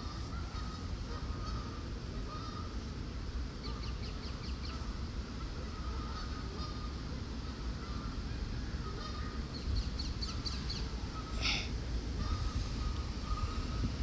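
Many short bird calls on one steady pitch, coming irregularly, over a steady low rumble. There are a few faint runs of high ticks and a single sharp click about eleven seconds in.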